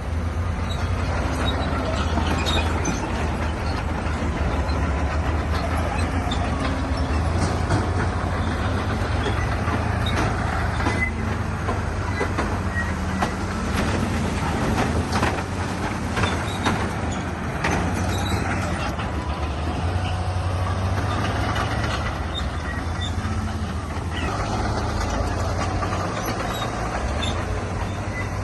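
Heavy diesel earthmoving machinery running steadily under load, with a scatter of sharp knocks and clanks through the middle.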